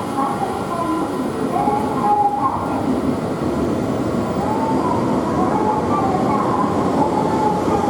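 Shinkansen train running along the station platform: a loud, steady rumble with wavering high tones over it.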